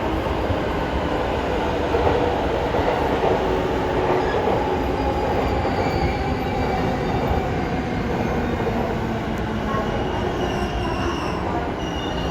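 E233-1000 series electric train running into the platform with a steady rumble, with a faint high squeal from the wheels or brakes in the second half.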